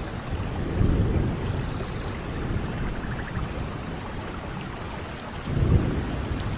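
Steady rain with low rumbles of thunder, one swelling about a second in and another near the end.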